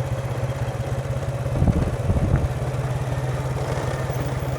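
Motorbike engine running steadily while riding, with two short low thumps about one and a half and two seconds in.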